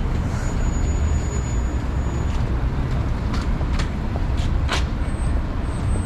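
Steady low rumble of city street traffic, with a few short sharp clicks or squeaks about three to five seconds in.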